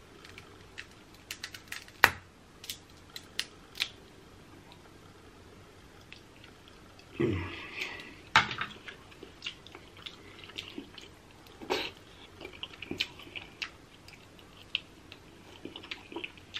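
Close-up eating of crab: chewing and lip smacking with scattered sharp clicks and cracks, and a louder, longer sound about seven seconds in.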